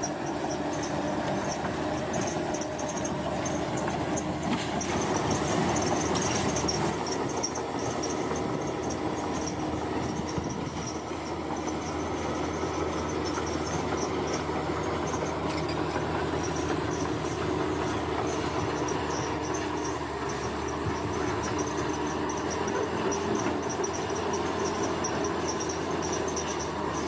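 Bulldozer's diesel engine running steadily as it works, with insects trilling high in the background.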